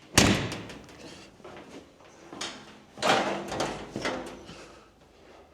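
Metal clunks and rattles from a combine cab door being worked. A sharp loud clunk comes just after the start, and another clatter with a brief ring about three seconds in.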